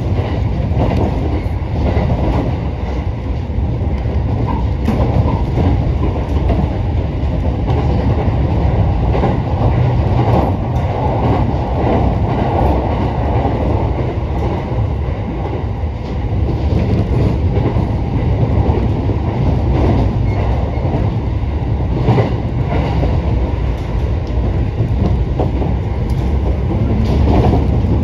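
Sobu Line local electric commuter train heard from inside the passenger car while running at speed: a steady low rumble of wheels on rail, with repeated clicks and clatter as the wheels pass over rail joints.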